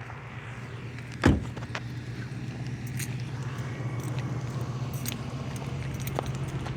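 Dodge Charger's V6 idling steadily through its aftermarket exhaust after a cold start, with one loud thump a little over a second in.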